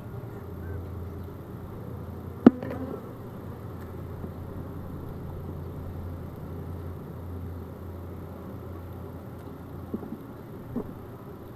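Honeybees buzzing in a steady hum around an opened hive, with one sharp knock about two and a half seconds in and two fainter knocks near the end.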